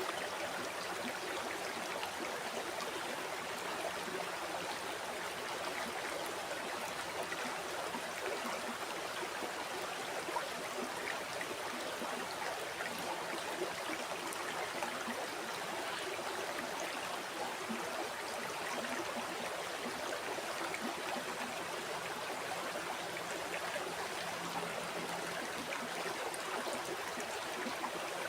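River water flowing and burbling over stones, a steady unbroken rush.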